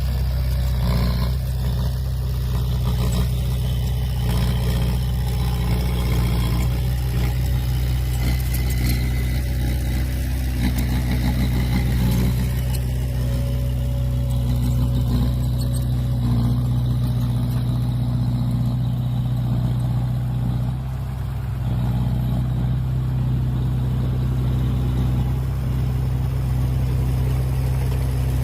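Heavy diesel engine of a dump truck or bulldozer running steadily with a deep drone, with a brief drop in level about twenty-one seconds in.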